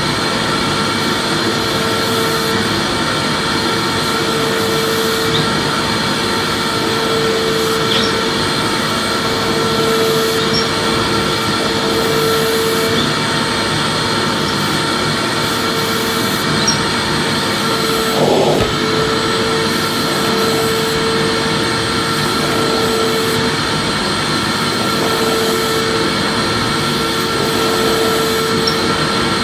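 Vacuum cleaner running steadily: a continuous rushing noise with a steady whine over it, and one brief knock about eighteen seconds in.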